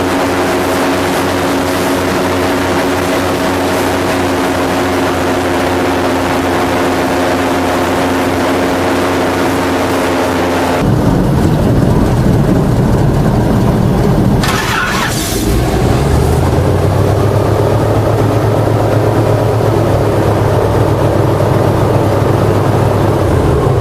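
Airboat engine and propeller running steadily. About eleven seconds in, the sound changes abruptly to a louder, deeper drone. A short hissing burst comes a few seconds later.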